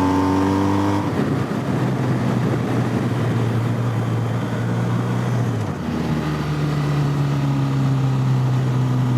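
Motorcycle engine running under way on the move, heard with a rush of riding noise. The engine note changes pitch about a second in and again at about six seconds, with a short dip in loudness at the second change.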